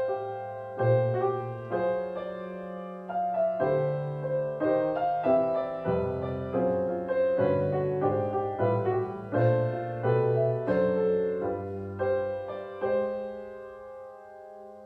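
Piano playing a slow melody over low bass notes, with a held chord that rings and fades away near the end.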